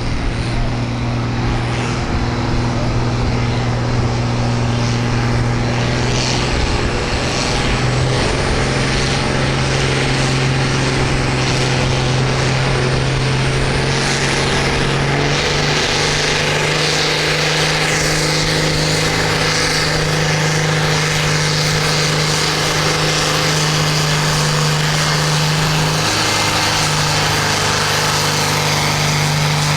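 Farm stock tractor engine running hard under load during a pull, dragging the weight sled. Its pitch holds steady, steps up about halfway through, drops briefly and comes back up near the end.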